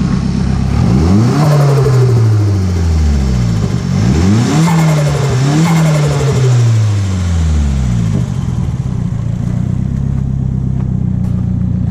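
Nissan 240SX's SR20DET four-cylinder engine running, blipped up several times with the revs climbing and falling back, then settling to a steady idle for the last few seconds.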